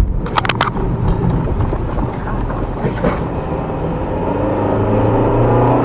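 A car's engine and road noise heard from inside the moving car, with a quick run of three or four sharp clicks about half a second in. Near the end the engine note climbs steadily as the car accelerates.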